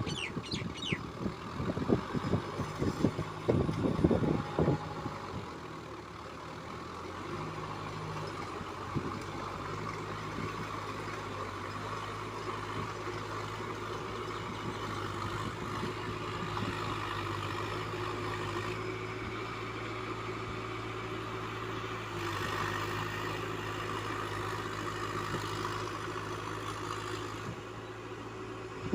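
ACE DI 6565 tractor's diesel engine running at a steady speed. A few loud, irregular knocks sound in the first five seconds before the engine note settles.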